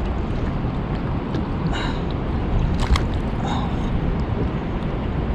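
Steady wind rumble on the microphone, with a few brief faint sounds over it.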